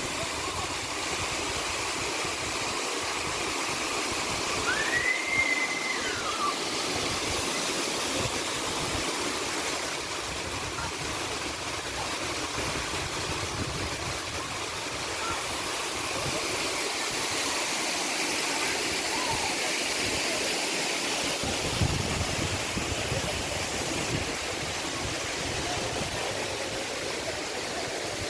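Waterfall rushing in a steady, even roar of falling water. About five seconds in, a short whistle rises and falls; near the end there is a single soft thump.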